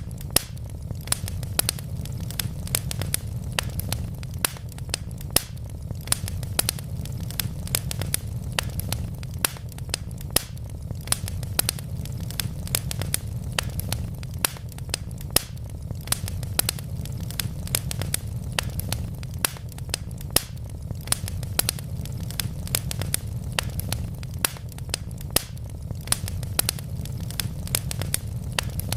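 Wood fire burning in a fireplace: logs crackling with several sharp pops a second over a steady low rumble.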